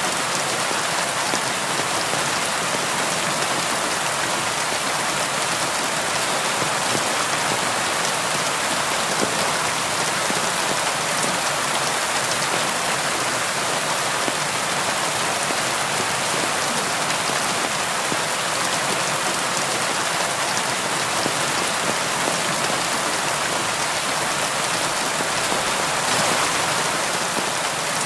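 Steady rain pattering on a window pane, a dense even hiss of drops with fine taps.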